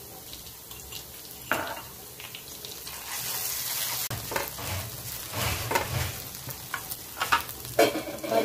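Chopped onion and ginger-garlic paste sizzling in hot oil in a nonstick frying pan on high flame, stirred and scraped around with a silicone spatula, with a few sharp knocks.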